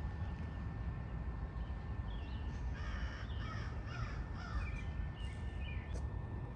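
A bird calling: a quick series of about five calls about three to five seconds in, over a steady low background rumble.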